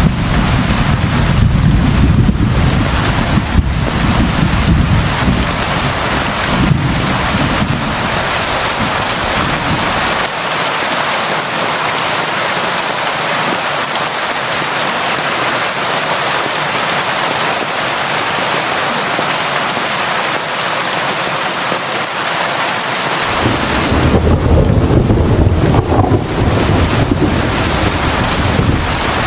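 Steady heavy rain, a dense even hiss. A deep low rumble runs under it for roughly the first third and comes back near the end.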